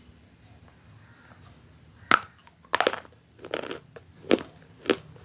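Crunchy food being bitten and chewed close to the microphone: about five loud, sharp crunches, starting about two seconds in, after a quiet start.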